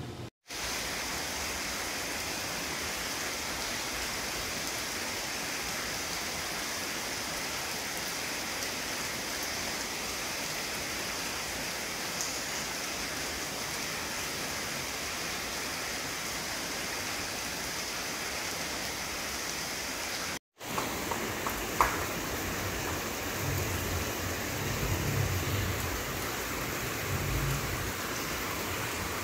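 Steady rain falling, an even hiss with no pitch to it. It drops out for an instant twice where the footage is cut. After the second cut come a few low rumbles and one sharp tick.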